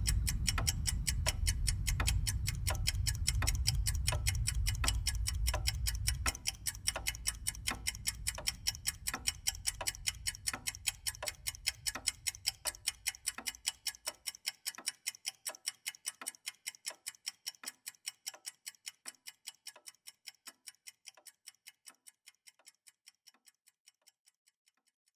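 Steady clock ticking, about three ticks a second, fading away to nothing near the end. A low rumble underneath drops in level about six seconds in and stops about halfway through.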